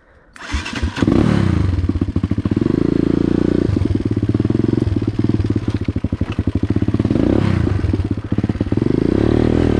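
Dirt bike engine starting up about a second in after a few knocks, then running loudly and revving as the bike is ridden off, its pitch rising and falling several times.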